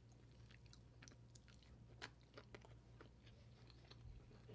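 Faint close-miked chewing of a mouthful of curry and rice: soft wet mouth clicks and smacks, one a little louder about two seconds in, over a low steady hum.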